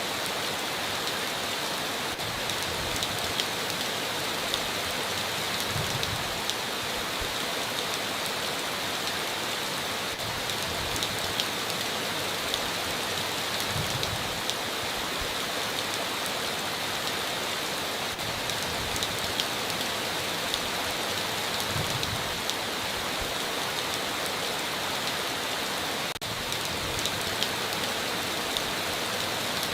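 Heavy rain falling steadily on a tin roof: a dense, even hiss of drops with fine individual ticks, and a very brief break near the end.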